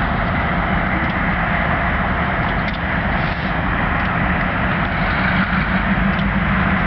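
Diesel locomotive engine running steadily, a low rumble with a broad hum over it and a few faint ticks.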